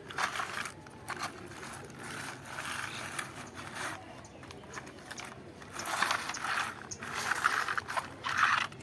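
Small plastic toy tractor and trolley being handled and pushed, giving irregular scraping and rattling, busier in the second half.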